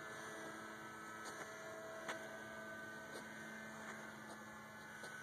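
Faint, steady hum of a small electric RC airplane's motor and propeller in flight, with a few light ticks.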